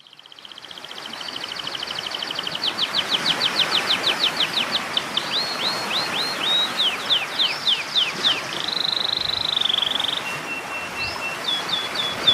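A songbird singing a masteran (training) song: a fast trill that fades in, then a run of quick down-slurred notes about four or five a second, a buzzy note and a short held whistle, over a steady hiss.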